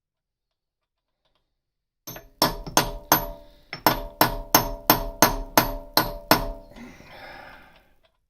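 Hammer striking a steel punch about eleven times, roughly three blows a second after a short pause, each blow ringing metallically, to drive out the stuck remnant of a snapped exhaust stud. A brief scraping rattle follows the last blow.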